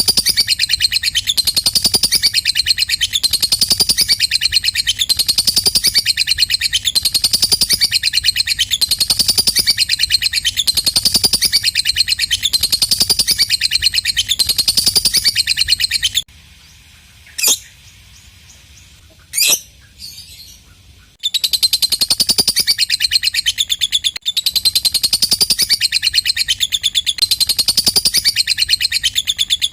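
Lovebird ngekek: a long, rapid, shrill chattering trill that pulses in phrases a little over a second apart. Past the middle it breaks off for about five seconds, apart from two short single calls, then resumes.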